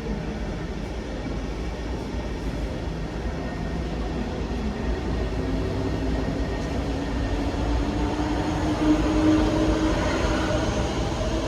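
A train moving through the station: a steady low rumble with a humming whine that grows louder in the second half.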